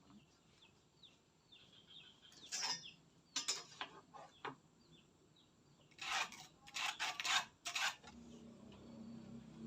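Short scraping strokes on wood, scattered at first and then four in quick succession, over faint bird calls. A low steady hum begins near the end.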